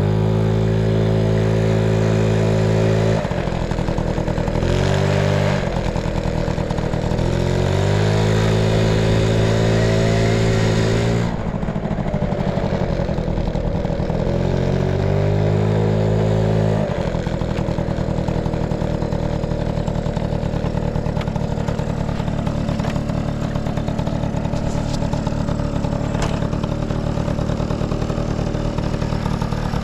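Honda Motocompo's small two-stroke single-cylinder engine revved up and let back down four times, then settling into a steady idle for the rest of the time. It revs freely with no abnormal noise.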